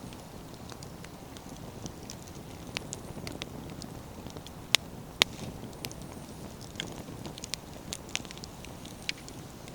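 Wood campfire burning: a steady low rush under scattered crackles and sharp pops, the two loudest snaps coming about halfway through.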